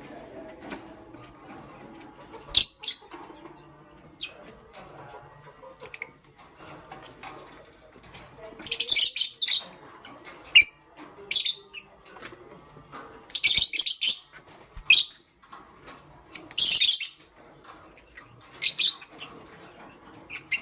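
Pet lovebirds chirping: shrill, high-pitched calls in irregular bursts, some short and several about a second long.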